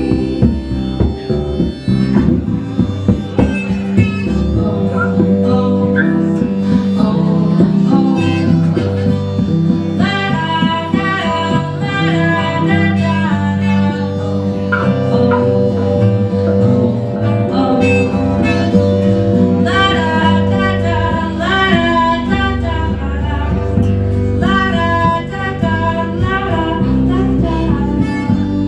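Band music with guitar: sustained bass notes under a wavering melodic lead line that grows busier about a third of the way through.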